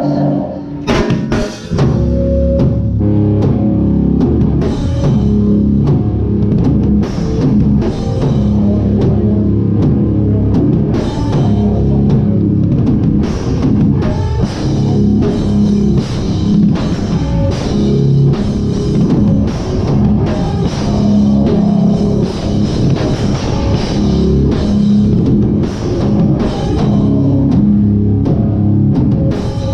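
Hardcore band playing live, heard from the drummer's seat: the drum kit and cymbals are loud and close over heavy electric guitar, with a short break about a second in before the full band comes in.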